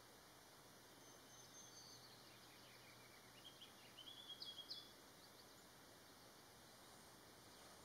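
Faint, high bird chirps over a quiet hiss: a couple of thin calls early, then a quick run of short chirps about three to five seconds in.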